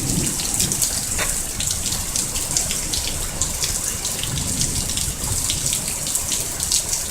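Heavy rain falling, with many small drop ticks over a steady wash of storm runoff water running along the ground.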